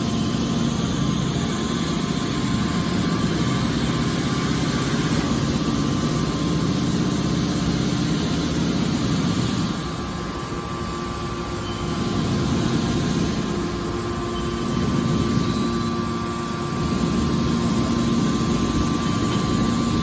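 Hydraulic scrap metal baler running, its hydraulic power unit giving a steady machine hum with a constant whine. The level dips briefly twice.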